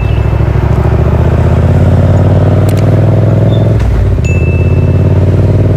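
Yamaha MT-07's 689 cc parallel-twin engine through a Yoshimura R77 slip-on exhaust with the dB killer fitted, pulling under acceleration with its pitch rising slowly. Near four seconds it breaks off briefly, as at a gear change, then pulls on steadily, with a short high tone just after.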